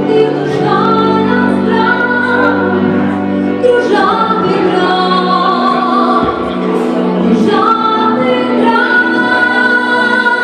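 A song with a woman singing long held notes, sliding up into a few of them, over sustained instrumental accompaniment.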